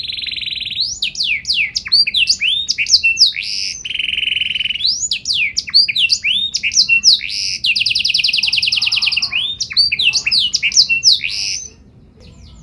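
Domestic canary singing loudly: blocks of very rapid trills alternate with quick rising and falling sweeping notes. The song breaks off briefly near the end.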